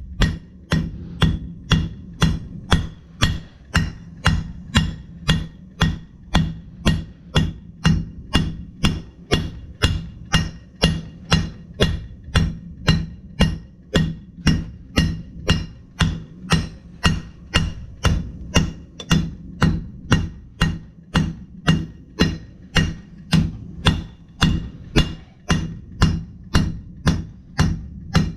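Blacksmith's hammer striking steel on an anvil in an even rhythm, about two blows a second, each with a brief ring, over a steady low hum.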